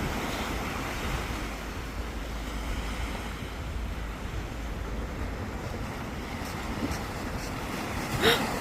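Sea waves washing onto the shore, with wind rumbling on the microphone. A brief sharp sound rising in pitch comes near the end.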